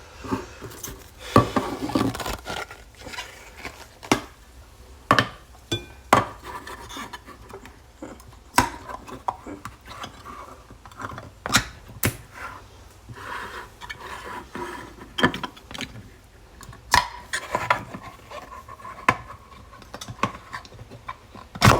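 Kitchen clatter: dishes, cutlery and containers being handled, knocking and clinking at irregular intervals. Near the end comes one louder, sharp metallic clank that rings on briefly.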